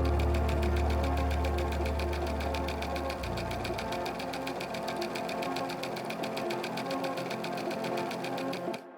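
Industrial textile machine running fast, with a rapid, even mechanical clatter. A low hum under it stops about three seconds in, and the sound cuts off just before the end.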